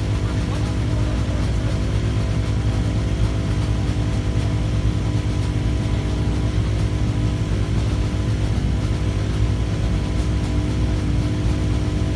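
Rally car engine idling steadily at an even pitch, with no revving.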